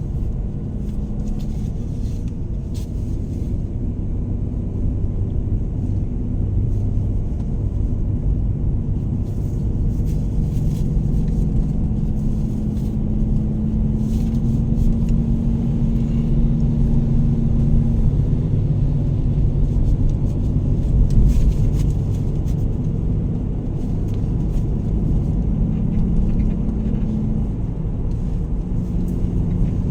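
Vehicle driving on a road: a steady low rumble of engine and road noise, with an engine hum that shifts in pitch a few times.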